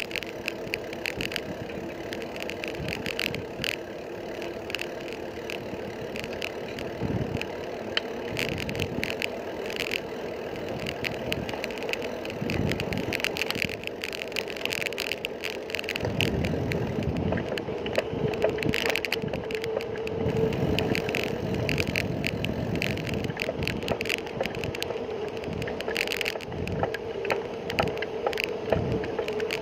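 Bicycle being ridden: many small rattles and clicks from the bike over a steady hum of tyre and road noise.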